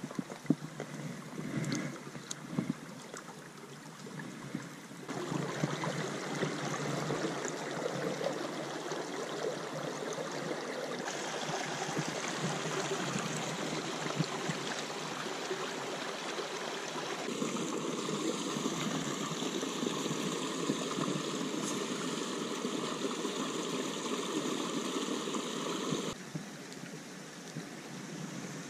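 Small mountain stream running over rocks, a steady rush of water whose level and tone jump abruptly several times.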